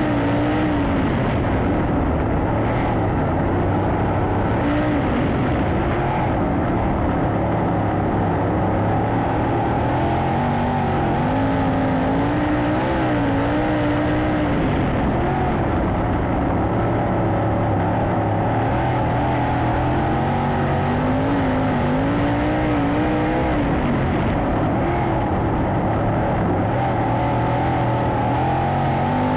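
Sprint car engines running hard on a dirt oval, several at once, their pitch rising and falling every few seconds as they come off and back onto the throttle.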